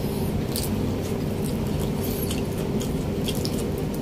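Mouth sounds of someone chewing fatty pork adobo: scattered short smacking clicks about every half second, over a steady low hum.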